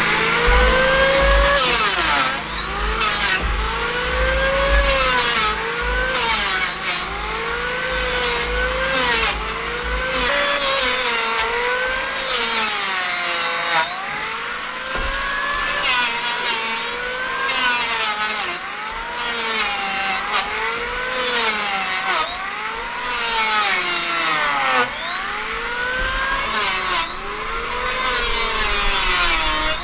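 Wood being sawn by hand with steady back-and-forth strokes, about one a second, each stroke's rasping tone rising and falling in pitch.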